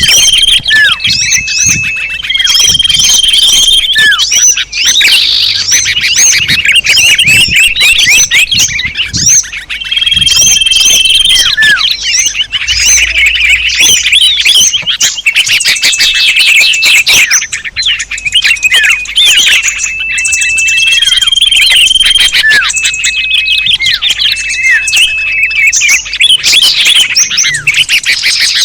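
Bird-lure recording of many small birds calling together: a dense, loud mix of chirps, fast trills and quick down-slurred notes, broken by repeated level whistles about a second long, played to attract small birds.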